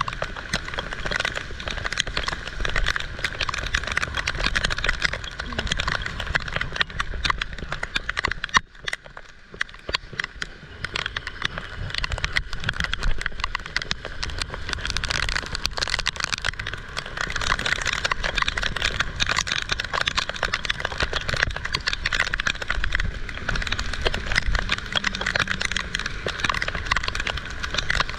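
Heavy rain falling hard, a dense, steady patter of drops with a low rumble underneath; it eases briefly about nine seconds in.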